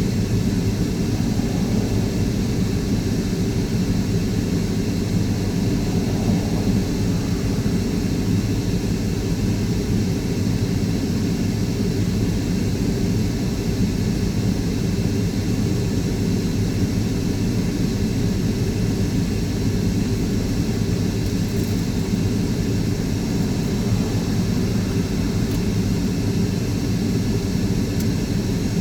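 Steady low drone of engine and road noise heard inside a moving car's cabin.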